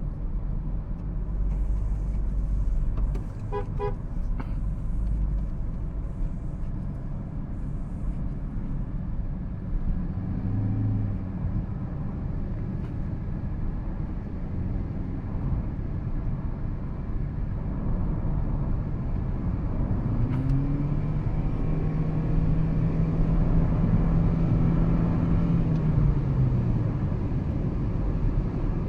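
2013 Toyota Prius being driven: steady low road and tyre rumble. A few short beeps come about four seconds in, and a low drawn-out hum rises, holds and falls away over about six seconds in the last third.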